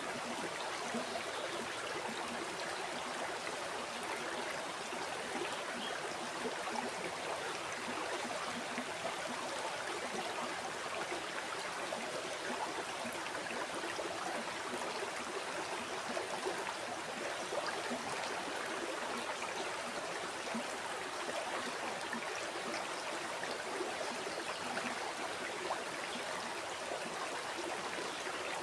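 River water flowing and burbling over stones: a steady, even rush with small splashes and no pauses.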